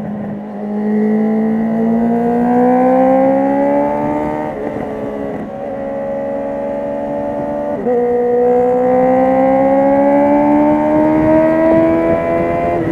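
Honda CB650R inline-four running through an Akrapovic titanium full exhaust with the dB killer removed, pulling under load with the revs climbing steadily. There are brief breaks in the note around four to five seconds, then a gear change near eight seconds drops the pitch before it climbs again.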